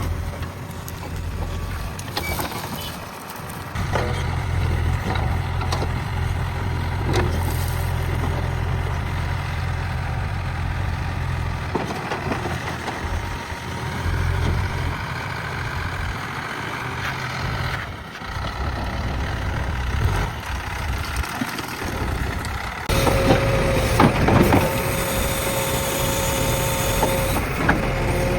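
JCB backhoe loader's diesel engine running steadily, with scattered knocks and scrapes. About three-quarters of the way through, the engine gets louder and a steady high whine joins in.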